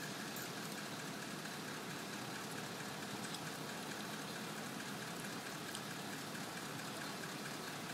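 Crane truck's engine running steadily.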